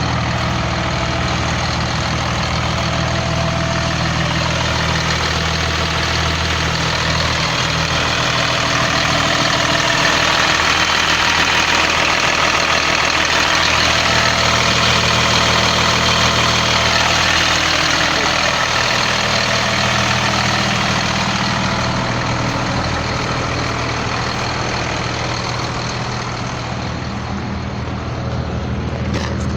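Blue Bird All American bus engine idling steadily, with a broad rushing noise over it that swells in the middle and eases off near the end.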